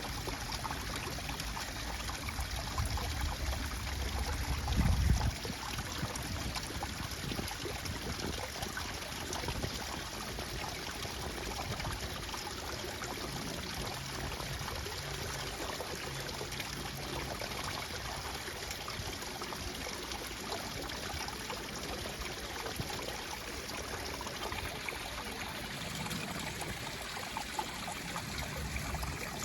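Steady rush and trickle of a flowing stream. A brief low rumble swells and stops about five seconds in.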